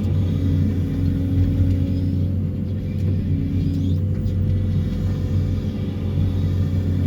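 Excavator's diesel engine and hydraulics running steadily with a deep, even hum while the machine works a vibro-hammer sheet-pile extractor.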